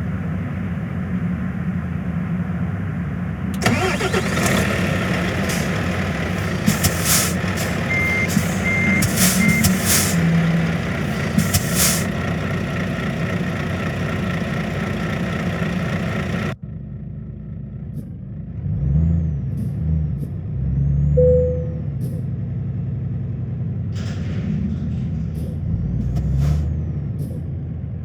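Truck engine running steadily, with three short high beeps about a third of the way through. After an abrupt cut the engine revs up and down in swells.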